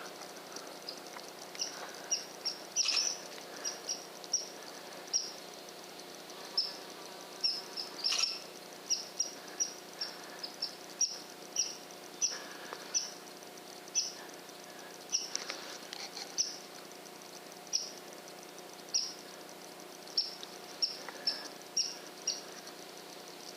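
Short, high chirps repeated at irregular intervals, roughly one a second, some with a fainter lower note, over a faint steady outdoor background.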